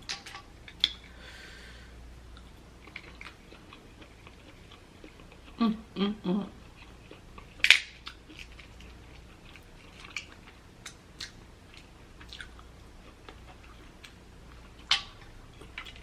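Close-miked mouth sounds of eating seafood: wet chewing and smacking with scattered sharp clicks, a few louder ones near the middle and near the end. A short vocal sound about six seconds in.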